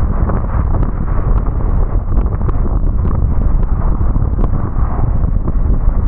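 Car driving on a wet road in the rain: a steady, loud low rumble of road and tyre noise, with scattered light ticks of raindrops striking the car.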